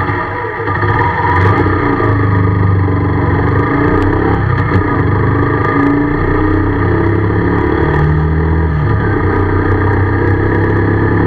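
Motorcycle engine running, heard close up from on board the bike, its note shifting with the throttle and stepping up about eight seconds in.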